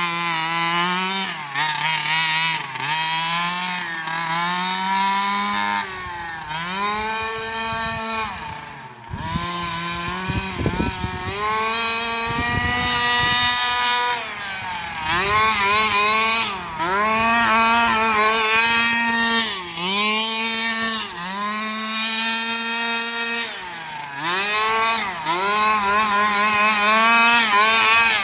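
Small 30cc two-stroke engine of a 1/5-scale Redcat Rampage XR Rally RC car, breathing through a tuned JetPro exhaust pipe, revving up and down over and over as the car is driven. Its whine climbs and drops every second or two, with a rougher, noisier stretch around the middle.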